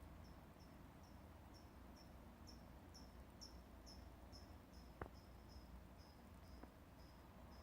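A bird repeating a faint, high, monotonous 'chip' call over and over, about two short down-slurred notes a second. There is one sharp click about five seconds in.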